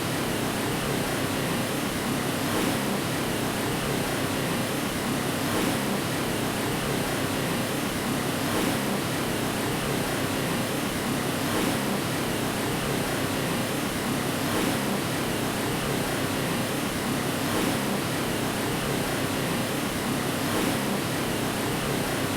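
Steady white-noise hiss of the kind played to lull a baby to sleep: an even rush with no pitch or rhythm, fuller in the low middle and without deep rumble.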